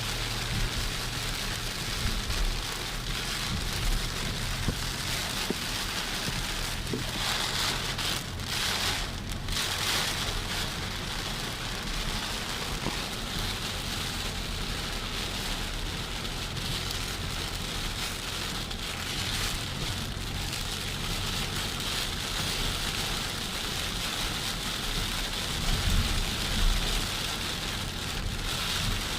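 Heavy rain falling steadily, an even hiss of drops on surfaces with a low rumble underneath.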